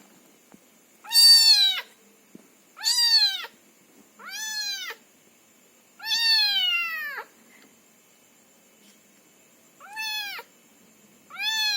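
A young kitten meowing repeatedly: six high, drawn-out meows, each rising a little and then falling in pitch. They come a second or so apart, with a longer pause of about two and a half seconds before the last two.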